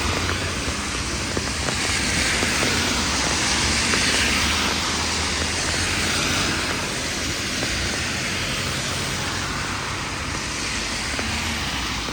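Heavy rain falling, a steady, even hiss, with a low steady hum underneath.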